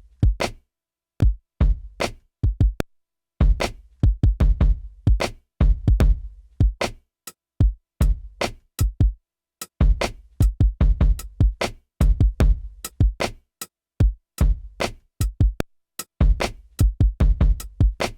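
Drum-machine beat played on an Akai MPC Live 3: deep kick and bass thumps under sharp, bright hits, in a choppy pattern. The sound stops dead into short silences between phrases.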